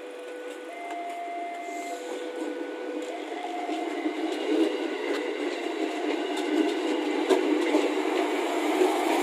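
KAI Commuter KRL electric train, a former Japanese 205-series unit, passing close by. Its wheel-on-rail rumble grows louder throughout, with sharp clicks as the wheels cross rail joints. During the first few seconds a two-tone level-crossing warning alarm switches between a lower and a higher tone about once a second.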